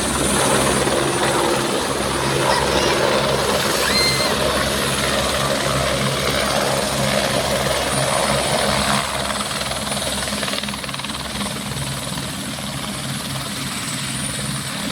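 Helicopter rotor and engine running steadily with a continuous low blade chop, easing slightly in level after about nine seconds.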